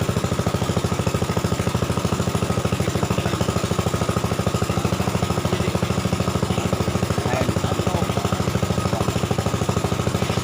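Small engine running steadily at an even speed, with a fast, regular firing beat that does not change.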